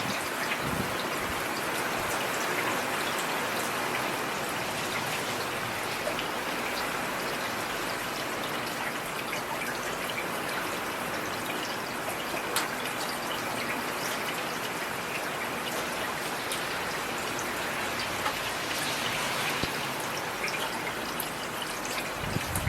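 Heavy rain falling steadily, an even hiss with scattered drops pattering on a surface and a trickle of running water.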